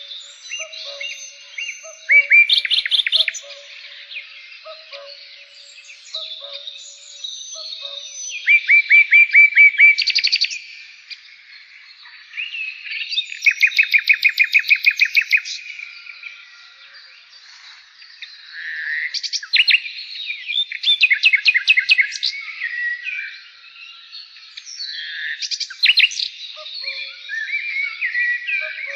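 Birds singing and chirping: loud bursts of rapid repeated notes come every few seconds, with softer chirps in between and a few faint low calls in the first seconds.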